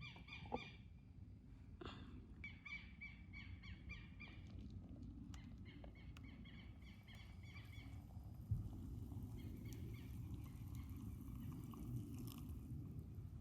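An animal calling in rapid trains of high chirps, about five a second, in four runs of one to two seconds each, over a low steady rumble. A single knock about eight and a half seconds in.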